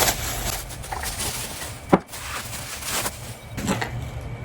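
Handling noise with steady rustling and one sharp knock about two seconds in, as a plant pot is brought out to be shown.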